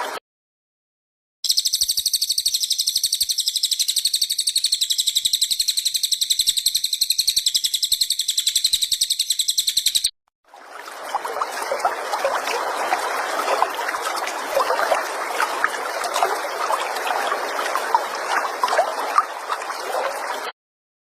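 Caged songbird's long, very fast, high-pitched buzzing trill, even and unbroken for about eight seconds. After a brief break comes a lower, rough, chattering noise with scattered clicks.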